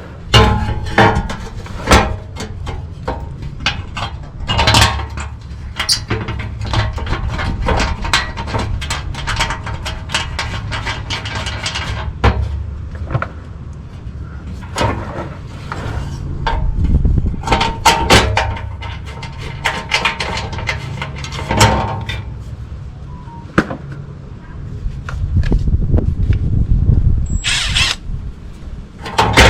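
Clanks and knocks of a metal skid plate cover being refitted under the vehicle and its bolts run in with tools, many sharp hits throughout.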